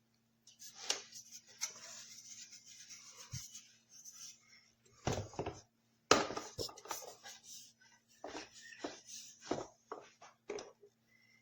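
Handling noises: rustling and rubbing with irregular knocks and clicks, the sharpest about five and six seconds in, over a faint steady hum.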